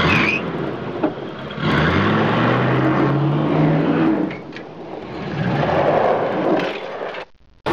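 Car engine running and accelerating, heard from inside the car. The engine pitch rises about two seconds in, eases off midway, then picks up again before the sound cuts off abruptly near the end.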